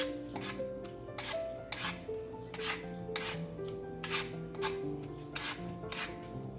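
Raw Korean radish being shredded for musaengchae: repeated short rasping strokes, about one and a half a second, with background music underneath.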